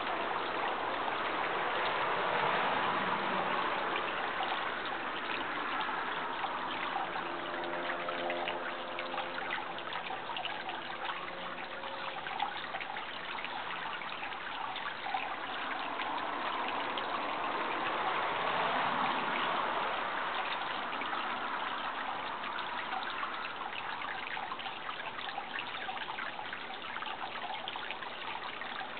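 Water trickling and running steadily, like a small stream. From about seven to twelve seconds in, a faint steady hum with several overtones sits underneath it.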